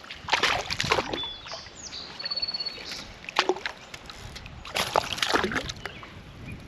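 Creek water splashing and sloshing in several loud bursts, with a bird chirping faintly between them.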